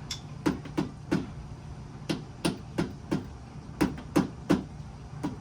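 Rubber mallet whacking the water pump cover on a Honda CR250 engine to knock the stuck cover loose. The blows come in quick runs of three or four, about three a second, each a dull thump.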